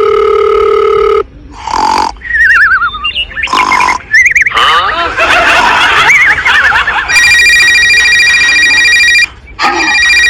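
A string of loud electronic tones: a held buzzy beep at the start and another about seven seconds in, with quick warbling, wavering pitch glides between them.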